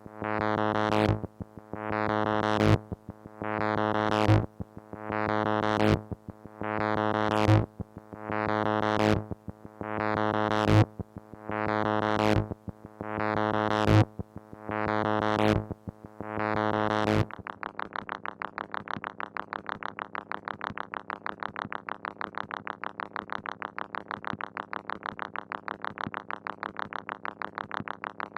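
Moog Mother-32 analog synthesizer, modulated by a Comdyna GP-6 analog computer, playing a low droning note whose filter opens in a rising sweep about every second and a half. About 17 seconds in it switches abruptly to a steady, rapid pulsing tone with a duller sound.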